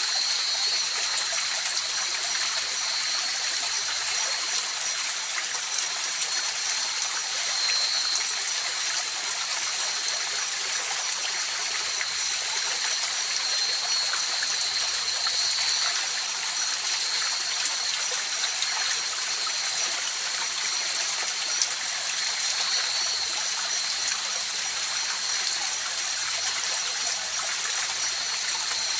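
A river flowing steadily in a continuous hiss of running water, with a thin steady high-pitched tone sounding above it throughout.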